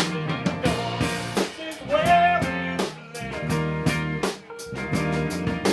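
A rock band playing a song, with drum kit and guitar, the drums striking in a steady beat.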